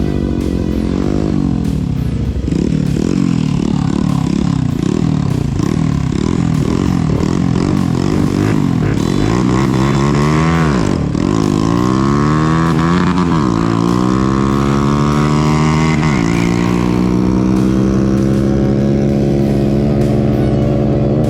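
Mini bike engine revving up and down over and over, then pulling through the gears: its pitch climbs and drops sharply three times, then holds a steadily rising note.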